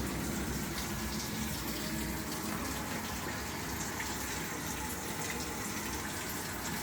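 Water rushing steadily into the drum of a Samsung top-loading washing machine through its inlet valves, which are vibrating. The machine is filling normally again after repair of a no-fill fault.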